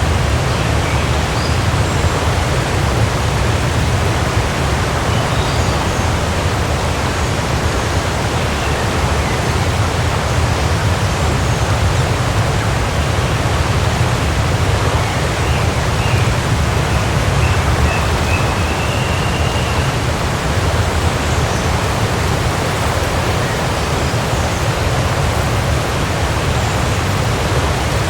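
Waterfall running: a steady, full rush of falling water with a deep low rumble and no breaks, with a few faint high chirps over it.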